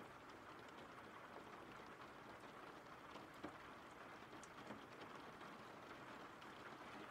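Faint recorded rain ambience: a steady, soft hiss of rainfall with scattered drop ticks.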